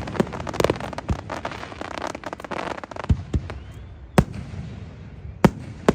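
Fireworks exploding: dense crackling that thins out over the first few seconds, leaving scattered single bangs, the loudest about four and five and a half seconds in.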